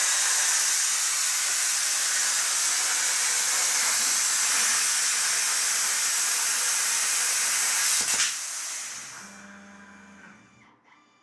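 Plasma cutter torch cutting with a loud, steady hiss of the arc and compressed air. About eight seconds in the arc cuts off with a click, and the air hiss dies away over the next two seconds as the cut ends.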